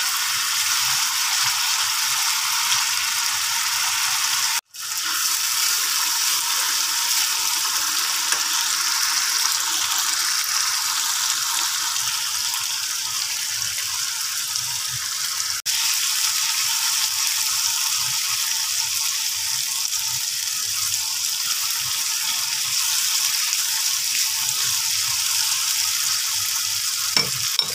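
Blended chili paste sizzling steadily as it fries down in oil in a nonstick pan. The sizzle breaks off for an instant twice, about five and sixteen seconds in.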